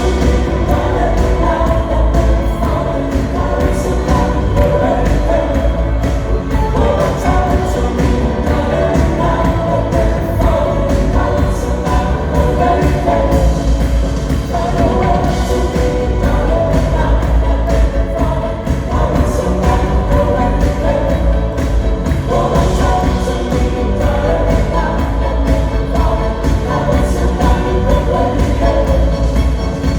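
Live pop band performing with singing over a heavy, steady bass.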